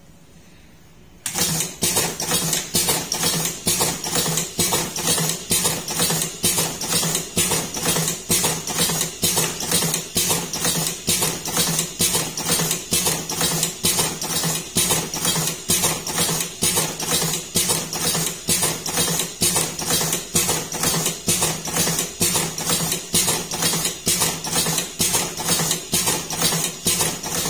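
Automatic electric cigarette filling machine switching on about a second in and running, its motor humming steadily under a rapid, regular clacking of about three strokes a second.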